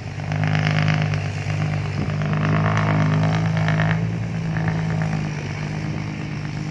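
Dump truck's diesel engine pulling hard under load, a steady engine note that swells about half a second in and eases off after about four seconds.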